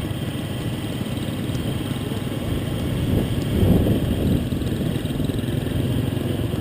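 Motor vehicle engine running steadily with a dense low rumble of road and wind noise. Faint voices come through about three to four seconds in.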